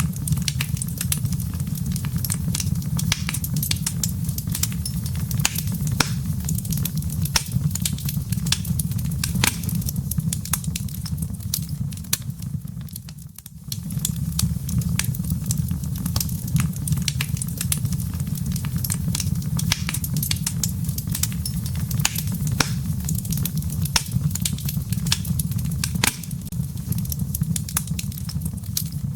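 Fireplace wood fire crackling and popping in quick irregular snaps over a steady low rumble, briefly dipping about halfway through.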